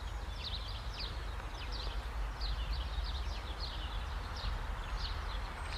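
Small birds chirping: short, high, falling chirps repeating about two or three times a second over a steady low background rumble.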